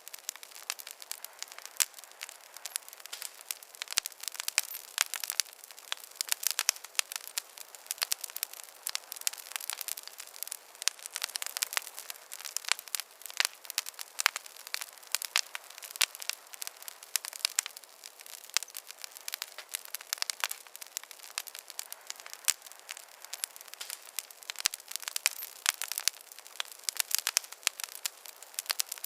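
Wood fire crackling in a fireplace: a steady hiss with many quick, irregular pops and snaps throughout.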